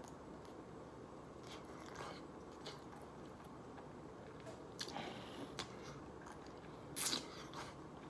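A person chewing a mouthful of soft, saucy wet burrito with the mouth closed, faint wet chewing and lip sounds, with a brief louder click about seven seconds in.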